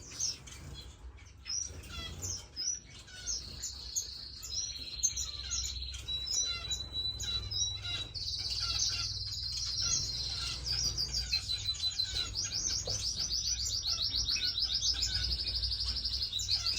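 Many captive finches chirping and calling together, short high notes and a few held whistles overlapping, with a fast run of rapidly repeated chirps building over the last few seconds. A low steady hum runs underneath.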